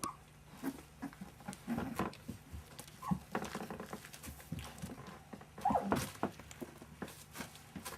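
Month-old puppies playing: irregular scuffling and thumps, with a few short high squeaks, about three seconds in and again near six seconds.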